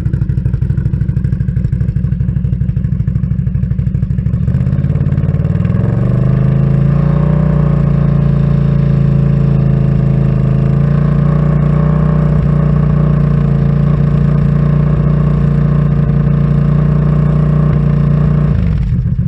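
Can-Am Outlander ATV's V-twin engine through an aftermarket RJWC single exhaust, idling, then revved up about five seconds in and held steady at about 3500 rpm for a decibel-meter sound test, dropping back to idle near the end.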